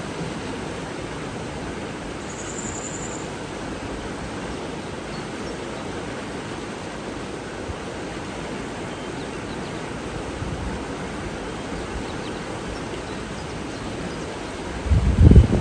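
Steady rushing of water, with a brief high bird note about two seconds in. Near the end a loud low rumble rises over it.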